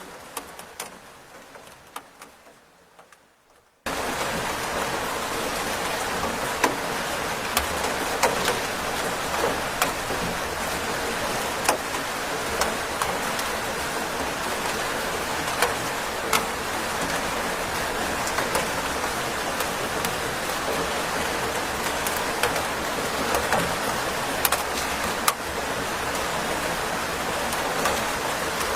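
Rain: a quiet, fading stretch with a few single drips, then about four seconds in it cuts in abruptly as steady, heavy rainfall with many individual drops clicking sharply.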